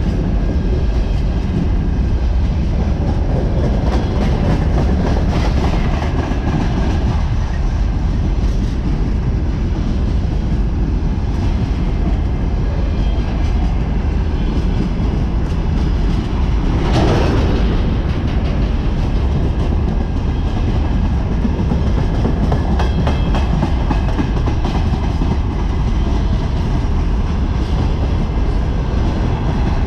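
Covered hopper wagons of a long freight train rolling past close by: a steady, loud rumble and clatter of steel wheels on the rails, swelling briefly about halfway through.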